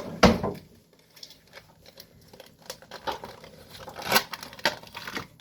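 Kitchen handling noises while cheesecake filling is spread: a sharp knock about a quarter second in, then faint scraping and rustling, with a couple of sharp clicks a little after four seconds.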